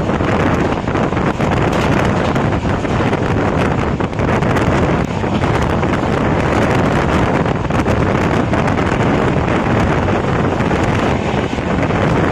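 Passenger train running along the line, heard from on board: a steady rush of wheel and track noise with wind buffeting the microphone.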